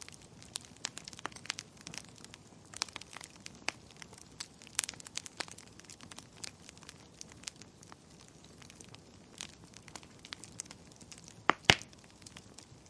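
Wood fire crackling in a fireplace: irregular small snaps and ticks over a soft hiss, with two louder pops in quick succession near the end.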